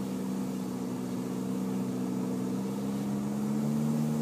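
Car engine running steadily, heard from inside the car, its note rising slightly about three seconds in.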